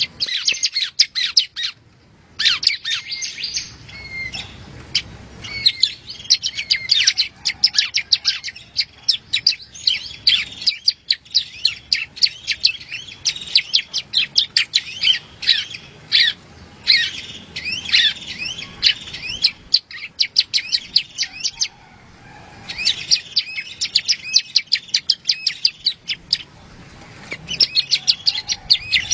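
Yellow-bellied prinia (prenjak rawa) singing: long runs of rapid, high, sharp chirps and trills, broken by a few short pauses.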